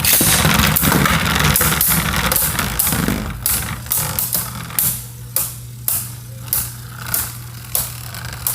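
Two Beyblade Burst spinning tops, Z Achilles and Crusher Doomsizer, battling after launch. For about three seconds there is a dense whirring scrape. Then comes a steady hum with sharp clacks about twice a second as the tops knock together.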